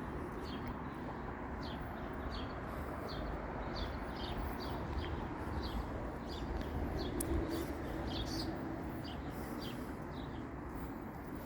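Small bird chirping over and over, about two short high chirps a second, over a steady low rumble of distant traffic that swells slightly about seven seconds in.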